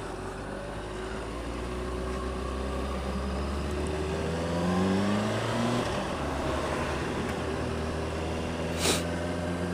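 A 600cc motorcycle engine under way with wind noise: the engine pitch rises as it accelerates, drops suddenly just before six seconds in at an upshift, then holds steady. A brief rush of noise comes near the end.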